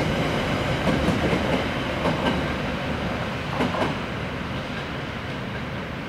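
A diesel train running through the station, its wheels knocking irregularly over the rail joints, gradually getting quieter as it moves away.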